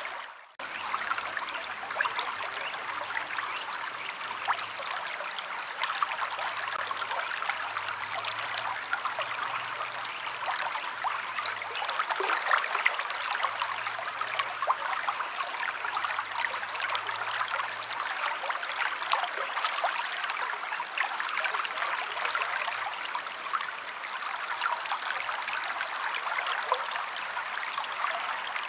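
River water flowing: a steady rushing with a dense patter of small splashes. The sound drops out briefly about half a second in.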